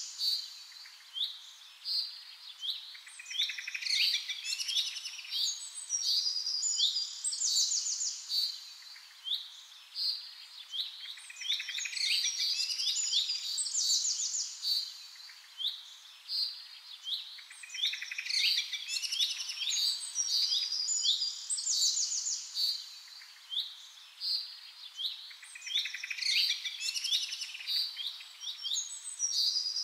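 Many small birds chirping and trilling together, high-pitched overlapping calls that swell in waves every few seconds.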